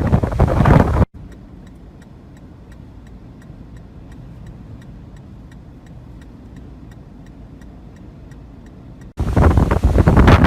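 Strong wind buffeting the microphone. It cuts off abruptly about a second in to a quieter stretch of low rumble with a steady faint ticking, and the loud wind buffeting cuts back in near the end.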